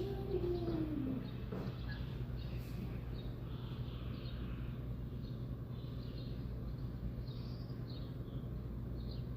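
Birds chirping in many short, high calls, with a low call that falls in pitch over about a second at the start, all over a steady low hum.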